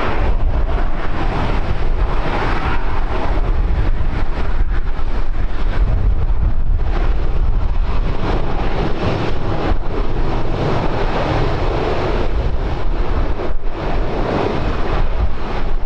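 Wind buffeting the microphone: a loud, rushing rumble that swells and eases unevenly.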